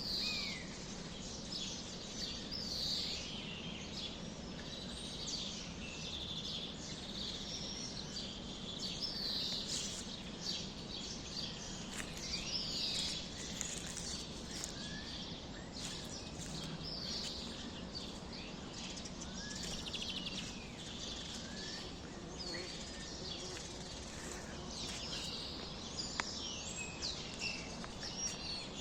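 A chorus of small songbirds chirping: many short, quick chirps and trills overlapping throughout, over a steady low background hum.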